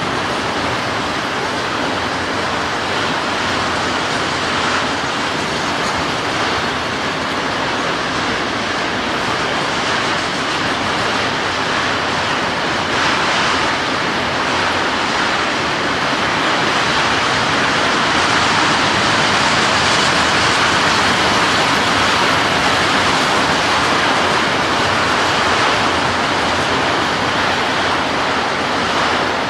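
Auto rack cars of a freight train rolling past at trackside, a steady noise of wheels on rail that grows a little louder about halfway through.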